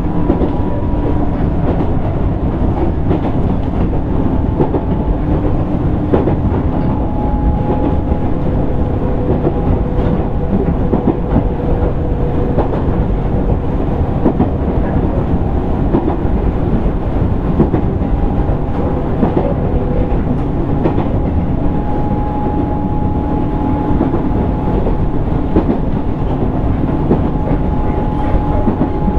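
Running noise of a JR East 205 series 600 subseries electric train car (MoHa 204-604) under way: a steady rumble of wheels on rail with scattered clicks over the rail joints and faint whining tones that fade and return.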